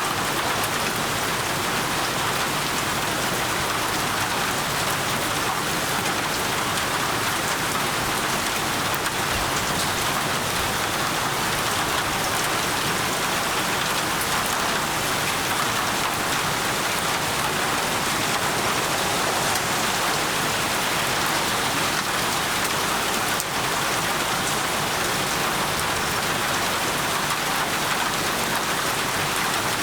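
Steady, even rain falling on a surface, with no thunder or other events standing out.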